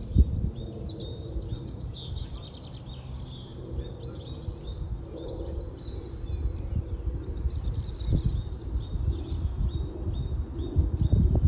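Small birds singing in series of quick repeated notes, over an uneven low rumble with a few dull thumps.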